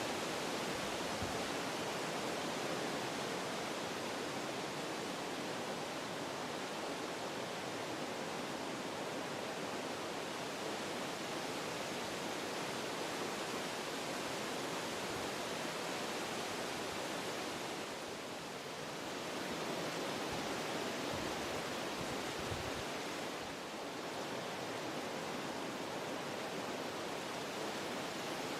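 Wind blowing through forest trees, a steady rushing that eases briefly twice in the second half.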